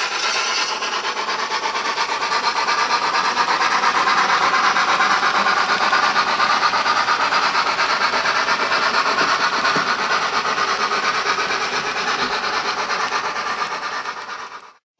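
HO-scale model train running along the track: a steady rolling rumble with a fast, even clatter, swelling slightly and then fading out near the end.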